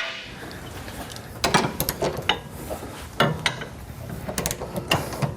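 Hand ratchet wrench clicking in short bursts, stroke after stroke about a second apart, as a suspension fastener is tightened down.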